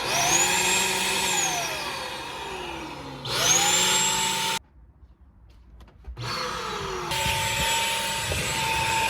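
Vacuum cleaner motor running with a steady rushing noise. Its whine rises as it spins up, then it cuts off abruptly for about a second and a half midway and starts again.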